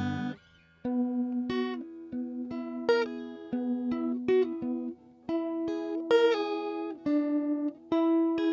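Electric guitar played through a JHS 3 Series Flanger pedal. A chord stops just after the start, and after a short gap comes a melodic line of picked single notes and two-note shapes, each note ringing briefly before the next.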